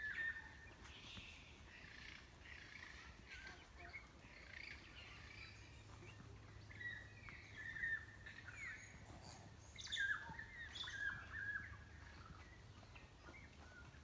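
Several birds chirping and whistling in the forest canopy: a run of short calls and quick sliding notes, busiest about two thirds of the way through.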